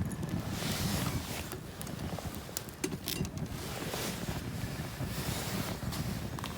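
Wind rumbling on the microphone, with scattered sharp crackles from a wood campfire.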